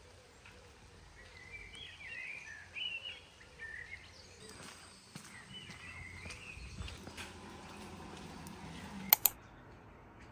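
Birds chirping in short warbling bursts over a low background hum of ambient noise; two sharp clicks in quick succession near the end.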